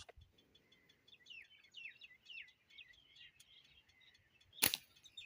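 Small birds chirping in short, quick, falling notes, with one sharp snap about four and a half seconds in.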